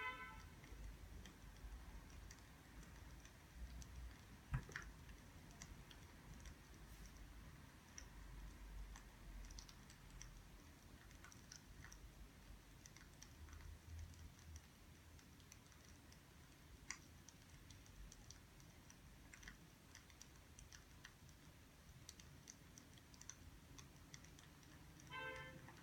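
Near silence with faint scattered clicks and ticks, one slightly louder tick about four and a half seconds in, and a brief high chirp near the end.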